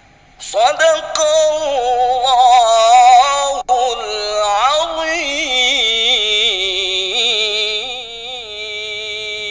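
A male qari's voice chanting Quranic recitation (tilawah) in a melismatic style, with rapid ornamented wavering in pitch. The phrase comes in after a brief pause and, from about halfway through, settles into a long held note.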